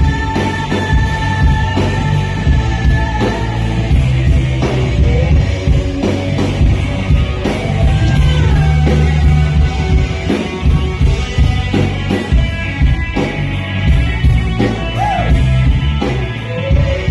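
Rock band playing live: electric guitar and drum kit, with cymbal hits keeping a steady beat.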